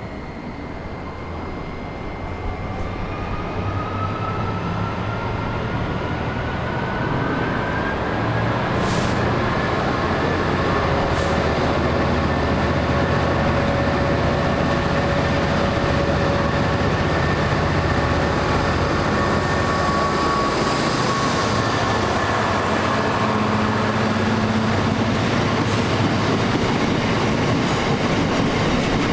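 Class 66 diesel freight locomotive and its wagons passing, the sound building over the first several seconds and then holding loud and steady: low engine note with wagons rolling over the rails and thin squeals from the steel wheels.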